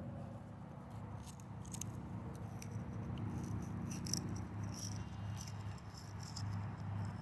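Small metallic clicks and rattles as a fuel line fitting holding a strainer is worked loose and handled, over a steady low hum.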